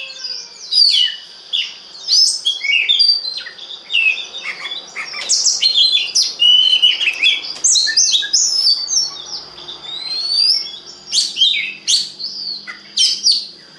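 Oriental magpie-robin (kacer) singing non-stop: a fast, varied run of sharp whistles, chirps and sliding notes, with a steady high tone underneath.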